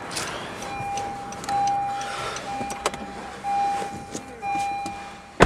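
Honda CR-Z's electronic warning chime sounding over and over, about one tone a second, as the car signals with a door open. A single sharp thump comes right at the end.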